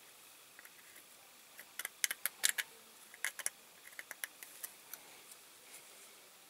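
Small diecast model parts clicking and tapping as they are handled and fitted together: an irregular run of sharp clicks starting about two seconds in, thickest for a second or so, then thinning out to a few scattered taps.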